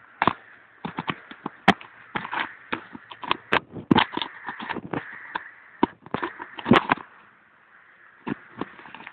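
Dry sticks and twigs snapping and knocking together as kindling is broken and laid for a campfire: a quick, irregular run of sharp cracks for about seven seconds, then two more near the end.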